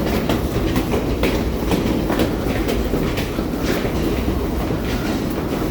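Rail car running along the track: a steady rumble of wheels on rail with a regular clickety-clack of wheels over rail joints.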